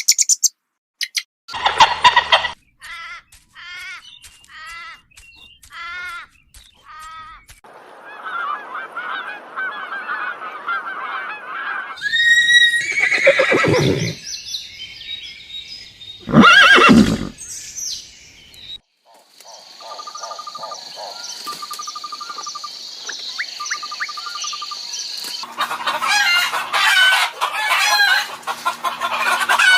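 A string of different animal calls in short clips one after another, with poultry calls among them: a run of short repeated chirps, a few loud calls, and dense chattering near the end.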